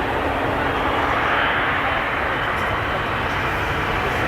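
Jet airliner engines running, a steady rush of engine noise with a faint high whine over it.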